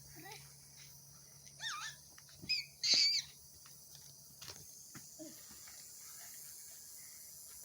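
A few short, high, bird-like calls that bend in pitch, the strongest about three seconds in, over the scattered faint crackle of a wood campfire.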